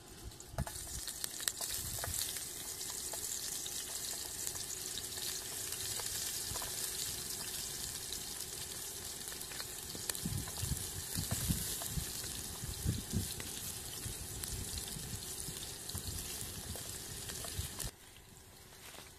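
Chopped onion sizzling as it fries in hot oil in a metal pot over a wood fire: a steady loud hiss with a few soft knocks in the middle, cutting off suddenly near the end.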